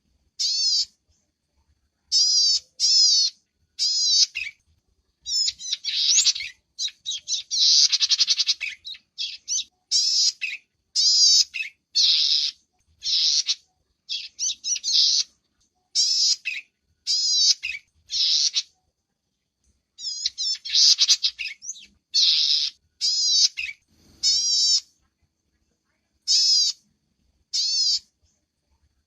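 High-pitched chirping calls of small songbirds from a bird-lure recording. Short chirps come in groups of one to three with gaps between them, broken twice by a longer, rapid trilled call: once about a quarter of the way in and again past the middle.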